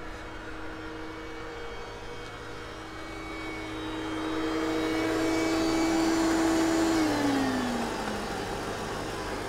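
Mercedes-Benz SL500 (R230) V8 engine idling just after being brought back to life. A steady whine over it slides down in pitch about seven seconds in.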